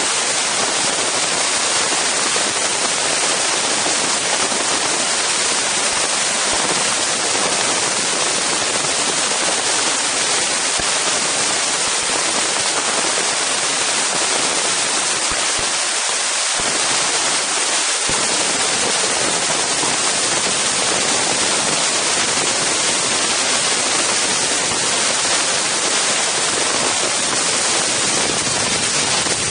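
Strong wind noise on an Insta360 One X camera's microphones: a loud, steady hiss that never lets up.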